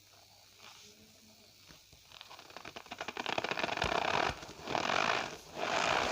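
Cornstarch powder being squeezed and pressed by hand, giving a squeaky crunching. It is faint for the first two seconds, then rapid fine crackling builds into three loud squeezes about a second apart.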